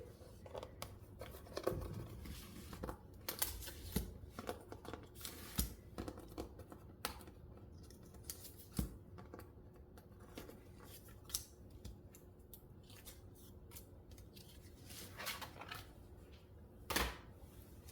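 Faint, scattered clicks, taps and scrapes of hands working with cardstock pieces and a plastic embossing folder on a craft table.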